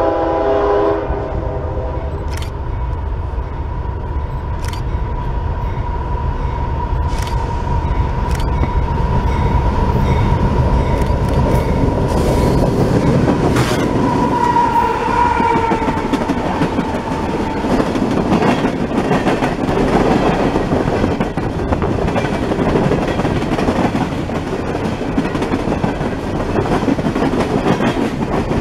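Freight train passing close by. A diesel locomotive horn chord cuts off about a second in, then a deep engine rumble passes, and a long string of freight cars rolls by with clicking over the rail joints. A steady high squeal runs through the first half and is loudest just before it fades out.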